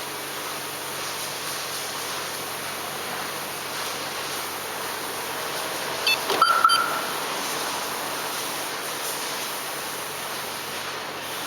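A short electronic chirp from a VIPER car security system, rising quickly and holding briefly, with a couple of sharp clicks about six seconds in, over a steady hiss of background noise.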